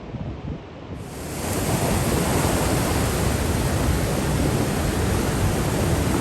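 Wind buffeting the microphone, then from about a second in a steady, even roar of rough sea surf.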